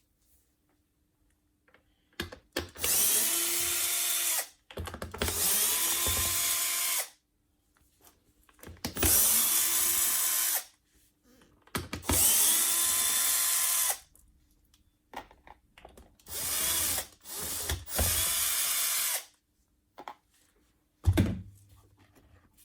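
A small electric motor whirring in six short bursts of about two seconds each, the pitch climbing as each one starts and cutting off quickly. A single knock comes near the end.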